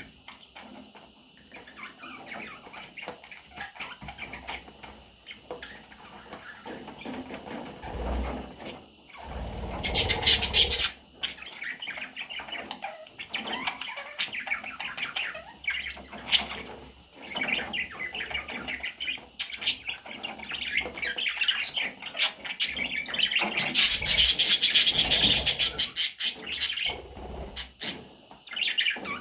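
Budgerigar chicks chirping and cheeping continuously, with louder, noisier bursts about ten seconds in and again a few seconds before the end.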